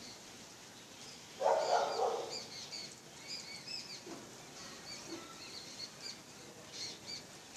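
Small birds chirping, with many short, high, quick chirps throughout. A louder, lower sound lasting just under a second comes about one and a half seconds in.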